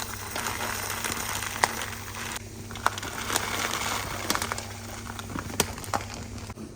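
Food sizzling in a hot pot, with scattered crackles and pops; it quietens after about two and a half seconds.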